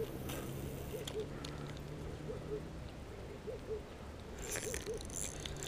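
A bird's soft, short low hoots, often in pairs, repeating from about a second in over a steady low hum.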